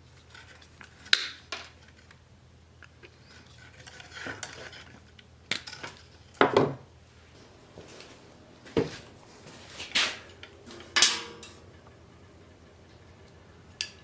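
Metal tools and parts clanking and clinking as they are handled, about seven separate knocks spread a second or more apart, one ringing briefly.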